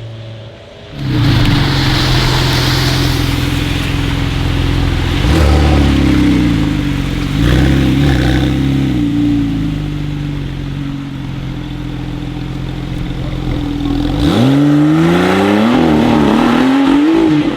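A performance car's engine comes in loud about a second in and runs hard, its note stepping in pitch a few times. Near the end, an engine revs sharply with the pitch climbing steeply, and revs up again just before the end.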